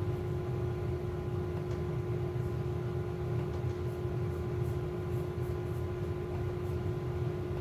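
Steady mechanical hum with a constant faint tone running through it, and a few faint light ticks.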